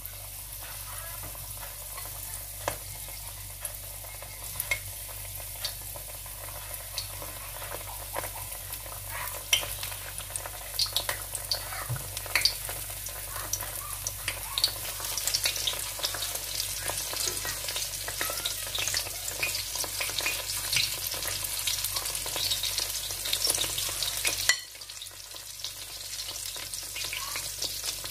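Battered eggplant slices shallow-frying in hot oil in a skillet: a steady sizzle with sharp crackling pops, growing busier as more slices go into the oil. The sizzle drops suddenly near the end, then builds again.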